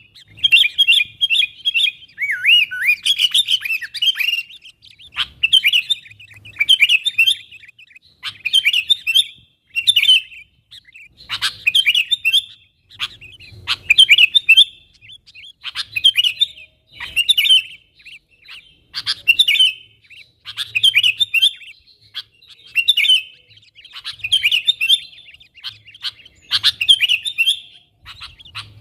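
Sooty-headed bulbul (kutilang) calling over and over, short bright chattering phrases about once a second, with a lower falling phrase about two seconds in: a contact call of the kind used to lure wild bulbuls closer.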